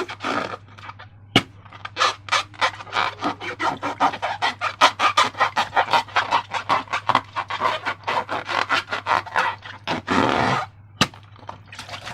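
Slime being squished and worked by hand: a fast, irregular run of wet clicking pops, several a second. A single sharp click comes about a second in and another near the end.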